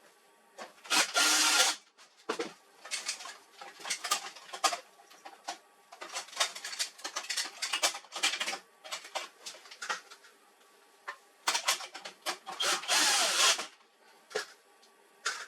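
Power screwdriver running in short bursts while a printer is being taken apart, with two longer runs of about a second each, near the start and near the end, among irregular clicks and rattles of parts being handled.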